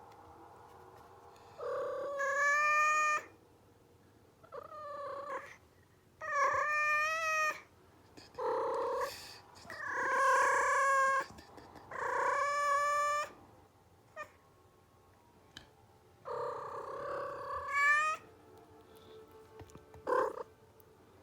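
Female cat in heat calling: about eight long, drawn-out yowls one after another with short gaps between, each wavering in pitch, the last one short.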